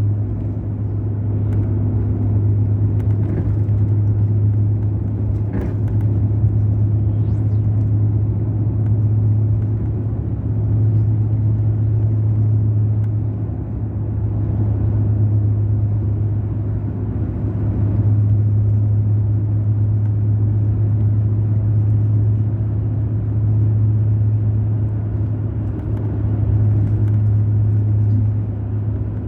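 Diesel engine of a Mercedes-Benz O500 RSD BlueTec5 coach running steadily under way: a loud, steady low drone that swells and eases slightly every few seconds.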